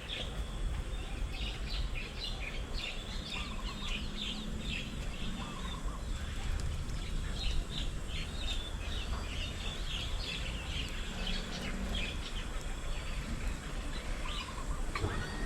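Several small birds chirping and twittering in quick, high, overlapping calls, over a steady low background rumble.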